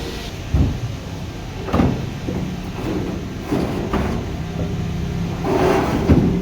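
Pieces of marble knocking and clattering as they are handled and set down while being unloaded, about half a dozen separate knocks, over a steady low hum.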